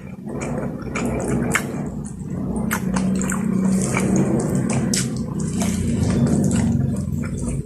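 Close-miked eating: steady wet chewing and mouth sounds, with many small sharp clicks and smacks.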